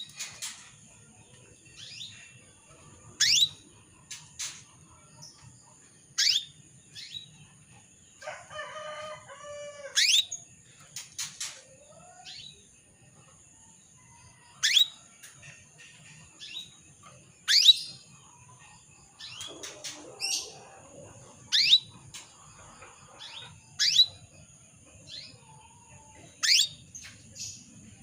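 Female canary calling: a short, sharp chirp sweeping upward, repeated about every two to three seconds, with one lower, buzzier call about a third of the way in. A faint steady high-pitched tone runs underneath.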